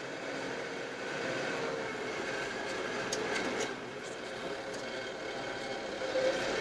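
Kioti RX7320 tractor's diesel engine running steadily while the tractor pushes snow, with a few light clicks about halfway through.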